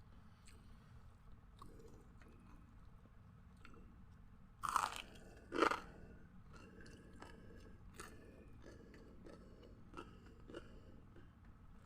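A person biting into crunchy food with two loud crunches about five seconds in, then chewing with a run of small crackles.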